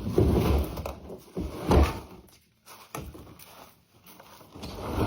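A few knocks and clunks of things being handled and set down, the loudest about two seconds in, with short quiet gaps between them.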